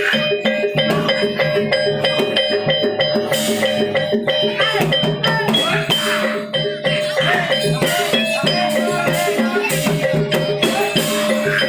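Javanese gamelan music accompanying a barongan dance: a steady, fast rhythm of struck metal gong-chimes and drums, with sustained tones running over it.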